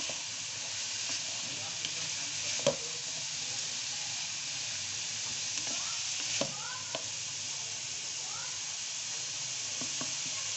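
Diced carrots and chicken sizzling in oil in a metal wok, stirred and scraped with a wooden spatula. A few sharp knocks of the spatula against the pan stand out, the loudest about two and a half seconds in.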